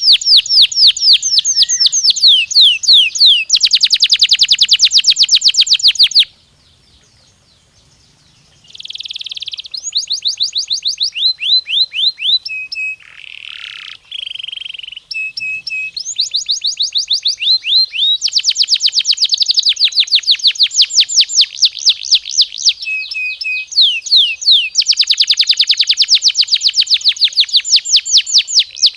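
Domestic canary singing: long, rapid trills of repeated sweeping notes, broken by a pause of about two seconds after about six seconds, then a few short held notes before the fast trills resume.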